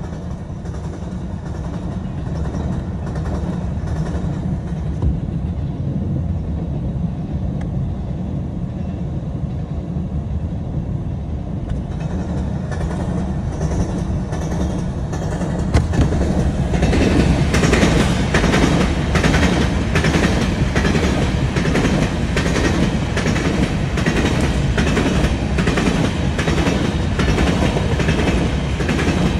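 Freight train of hopper cars rolling past, a steady low rumble of steel wheels on rail. About seventeen seconds in it grows louder and brighter, with rapid clacking of wheels over the rail joints.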